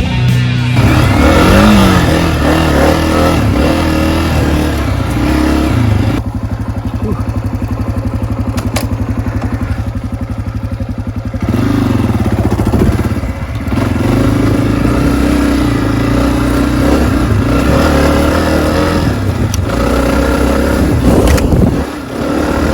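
Honda CRF250F dirt bike's single-cylinder four-stroke engine running under a rider, revving up and easing off. About six seconds in it drops to a lower, even putter for roughly five seconds, then revs again.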